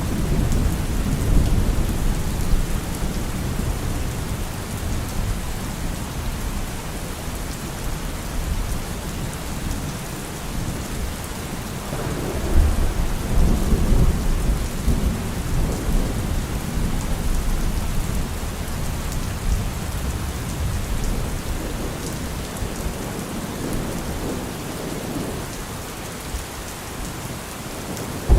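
Steady rain falling with rolling thunder; low rumbles swell near the start and again about halfway through.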